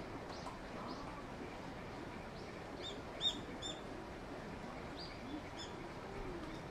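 Small birds chirping: short, high chirps, a cluster of them about three seconds in and a few more after five seconds, over a steady outdoor background hiss.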